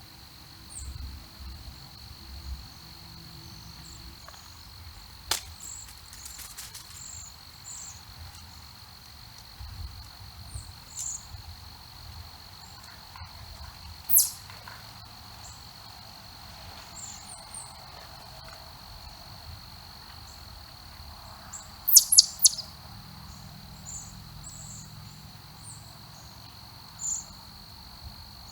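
Small wild birds chirping with scattered short high notes over a steady high insect drone. One loud sharp call comes about fourteen seconds in, and a quick run of four loud chirps a little after twenty seconds.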